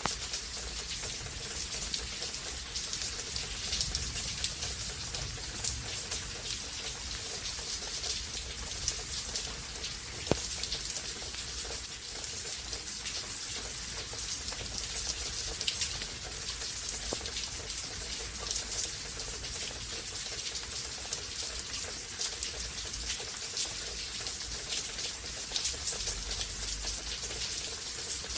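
Steady rainfall during a rain storm, with many individual drops heard striking close by, and one sharper drop tick about ten seconds in.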